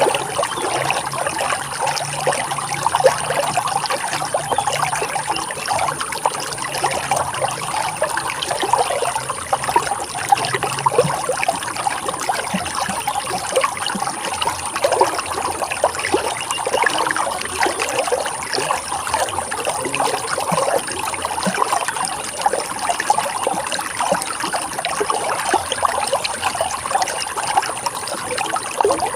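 Running water flowing steadily, an even rushing sound with small trickling and bubbling detail throughout.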